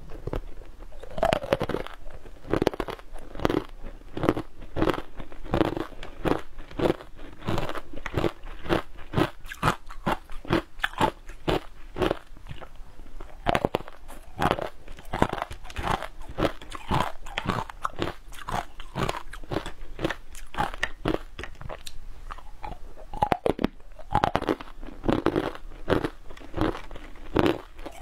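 Close-up crunching and chewing of a mouthful of frozen green powdery food, many crisp crunches a second.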